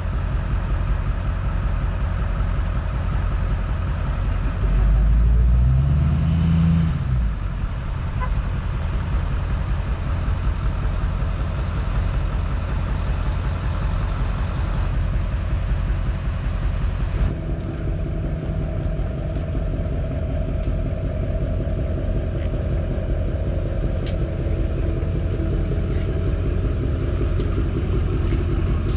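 A vehicle engine running steadily with a low rumble. About five seconds in, a brief louder low sound rises in pitch, and the tone of the running changes about two-thirds of the way through.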